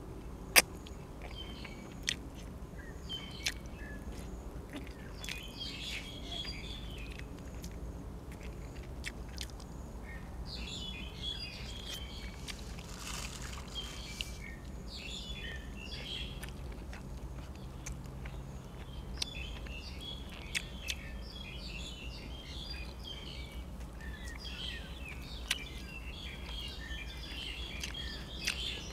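Birds chirping in repeated bursts in the background, with a few sharp clicks; the loudest click comes about half a second in.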